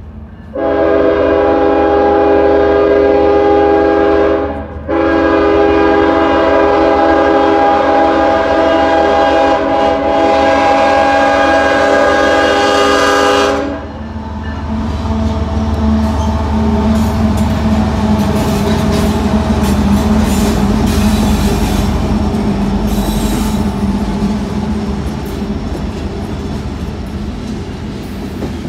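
Diesel freight locomotive's air horn sounding a chord of several tones, in a blast of nearly four seconds and then, after a short break, a long blast of about nine seconds: a warning for the street crossing. Then the locomotive's engine rumbles past and a string of covered hopper cars rolls by, wheels clicking over the rail joints.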